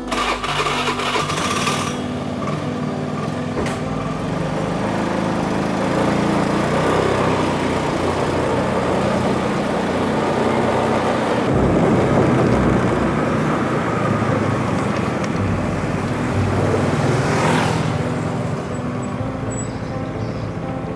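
Motor vehicle engine running while travelling, its pitch shifting up and down with speed, over steady road and wind noise.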